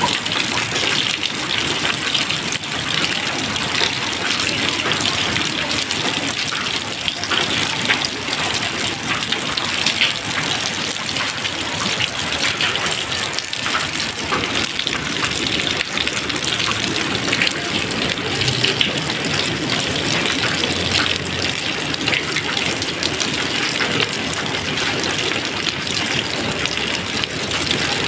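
Steady rain: a dense, even hiss crowded with small drop impacts, with no thunder.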